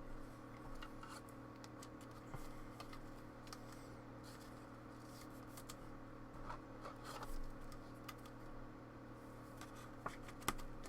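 Faint scattered clicks and brief rustles of trading cards and their packaging being handled, over a steady low hum.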